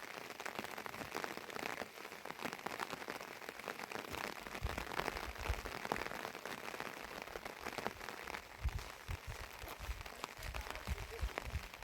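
Heavy rain falling, a dense pattering of close drops. Low thuds come and go from about halfway through.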